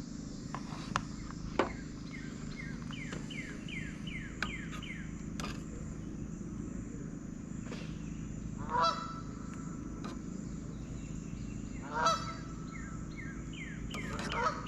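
A large bird honking twice, about three seconds apart, with another bird's quick runs of descending chirps and a few light clicks.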